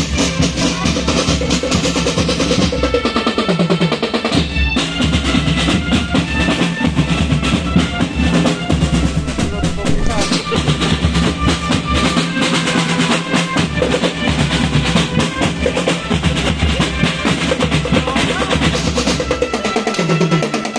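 Marching band playing: rapid snare drum strokes and rolls over bass drum, with held melody notes on top.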